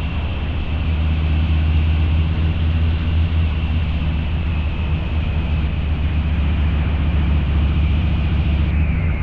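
Harley-Davidson Low Rider's 129 cubic inch V-twin, breathing through a Two Brothers Racing exhaust, running steadily on the road with a deep, even exhaust note.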